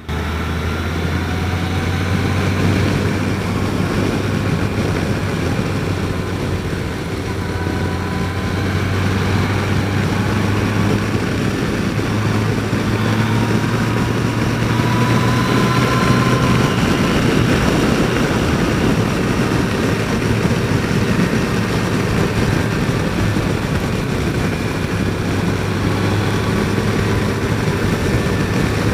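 Motorcycle riding at road speed, most likely a Yamaha FJR1300's inline-four: a steady low engine hum under heavy wind noise, the engine's pitch drifting slightly up and down.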